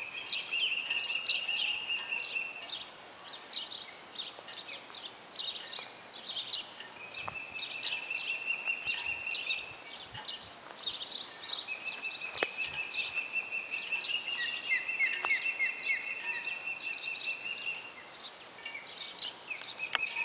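A bird calling in three bouts of rapid, high chirps over a held high note, each bout lasting a few seconds.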